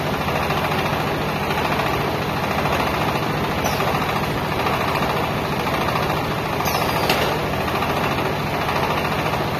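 Silage baler-wrapper machine running steadily: a continuous mechanical hum and rattle, with a couple of faint brief squeals.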